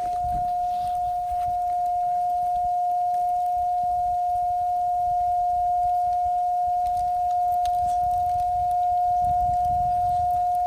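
A steady whistling tone held at one unchanging pitch, over a low rumble.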